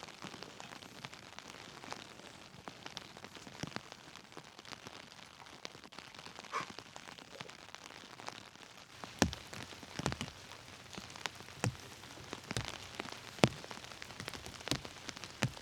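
Rain falling steadily, with single heavy drops landing as sharp taps, more of them and louder in the second half.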